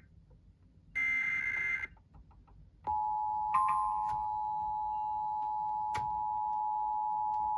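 Emergency Alert System SAME header data burst, a short buzzy digital warble, about a second in. About three seconds in it is followed by the EAS attention signal, a steady two-tone alert tone.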